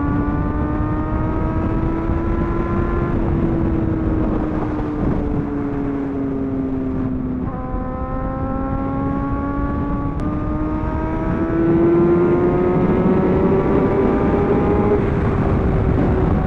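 Superbike engine running at highway speed, its pitch slowly rising and falling with a couple of sudden steps, over a steady rush of wind noise.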